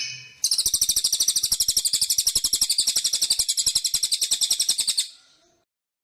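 A songbird giving a fast, high, even trill of rapid repeated notes. The trill lasts about four and a half seconds and breaks off about five seconds in.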